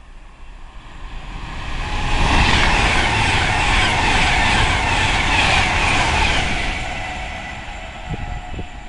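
Virgin Pendolino electric express train passing through the station at speed without stopping: a rushing roar of air and wheels that builds over about two seconds, holds for about four, then fades away.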